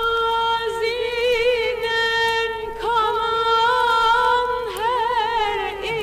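Turkish art music: a singer holds long, ornamented notes with a wide vibrato, changing note a few times.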